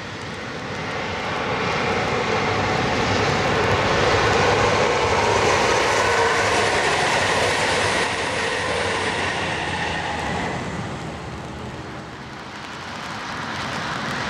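A train passing: a rushing noise that swells over the first few seconds, fades by about twelve seconds in, and rises again near the end.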